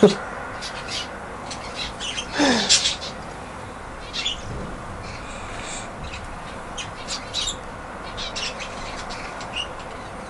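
Budgerigars chirping and squawking at a seed feeder, with one longer falling squawk about two and a half seconds in and many small clicks scattered throughout.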